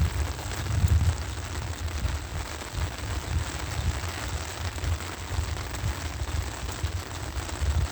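Heavy rain pattering on an umbrella overhead as an even hiss, with uneven low rumbles and bumps underneath.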